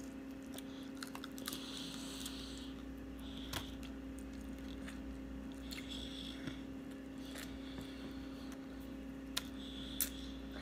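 A person chewing fried jumbo shrimp close to the microphone: soft wet chewing and lip smacks, with scattered small clicks.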